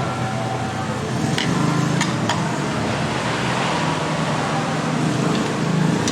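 A steady mechanical hum, with three sharp clicks between about one and a half and two and a half seconds in.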